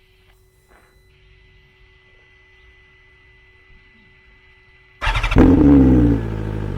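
BMW S1000RR inline-four with an SC Project CRT slip-on exhaust starting up about five seconds in: it fires suddenly and loudly, flares, and drops back toward idle. Before that only a faint steady hum.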